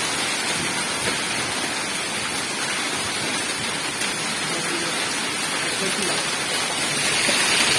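Heavy rain mixed with hail pouring down in a dense, steady hiss, with faint scattered clicks of hailstones striking.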